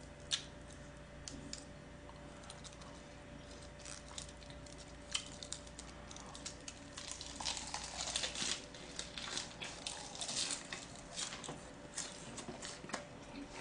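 Faint clicks of chopsticks and rustling of a napa cabbage leaf as a gwamegi (half-dried fish) wrap is put together, then, from about halfway through, close-up chewing with wet smacks and crunching of the cabbage wrap.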